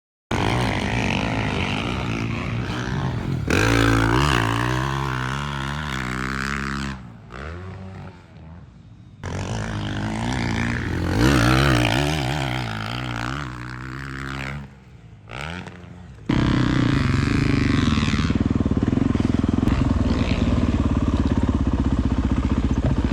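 Motocross bike engine on the track, revving up and down through the gears, with two throttle-off dips, then held at a steady drone near the end.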